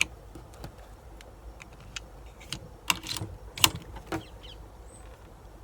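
Scattered light clicks and small knocks of an air rifle being handled between shots, a few sharper ticks about three to four seconds in.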